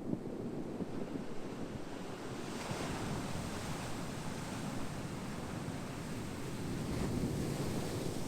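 Ocean surf: a steady rush of waves breaking and washing, swelling into a brighter hiss a few seconds in and again near the end.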